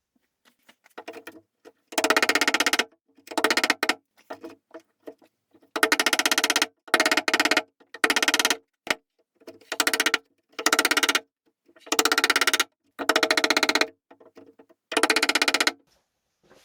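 Repeated rasping strokes of something rubbing on wood, about ten strokes of under a second each, with short pauses between them and a fast chattering grain within each stroke.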